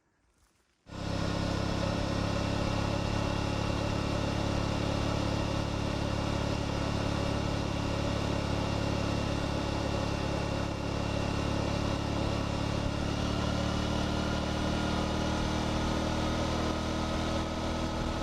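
Aprilia Tuareg 660's parallel-twin engine running steadily on the move, over a constant rushing noise; it cuts in abruptly about a second in.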